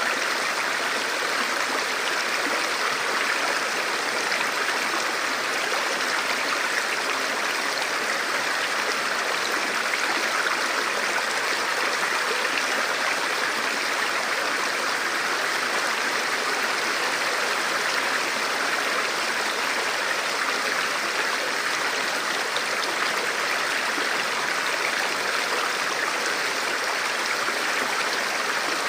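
Forest river flowing, a steady rushing of water over rocks with no breaks or changes.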